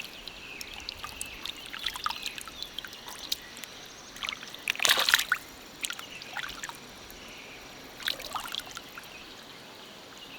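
Stream water trickling, with scattered small splashes and clicks, a louder splash about halfway through and a smaller one near the end.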